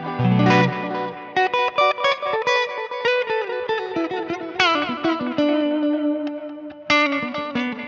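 Electric guitar played through the Neural DSP Mesa Boogie Mark IIC+ amp-modelling plugin. It opens with a couple of chugged chords, then runs into quick picked single notes, with bent notes about halfway through and again near the end.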